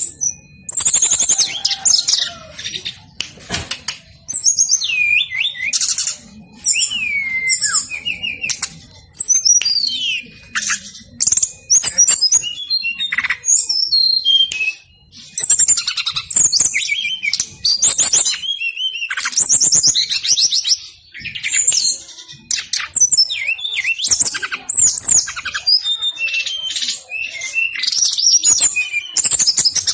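Brown-chested jungle flycatcher singing a fast, continuous song of whistled notes that slide up and down, mixed with rapid trills, with only short pauses between phrases.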